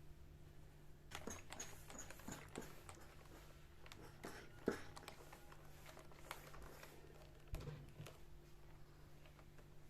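Faint scattered clicks and taps, with one sharper knock about halfway through and a duller thump a little later, over a steady low hum.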